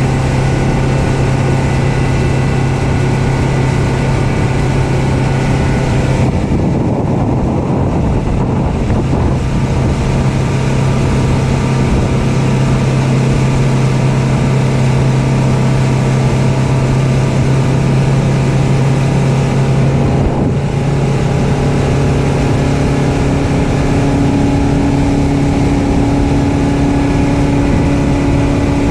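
Yamaha outboard motor on a bay boat running steadily underway, its engine note shifting about six seconds in and again around twenty seconds in.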